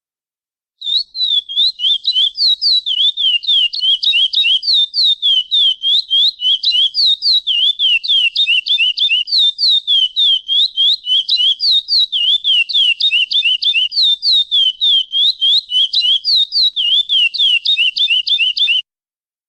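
Chestnut-bellied seed-finch (curió) singing the 'praia clássico' song: a long, rapid, unbroken string of short, clear whistled notes that sweep up and down. It starts about a second in and stops abruptly near the end.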